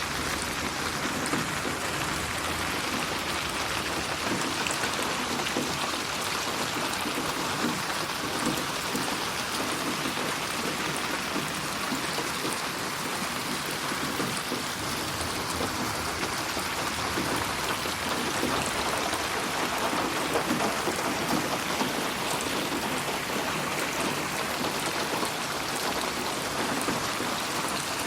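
Steady rainfall: a continuous hiss of rain on surfaces with fine scattered drop patter.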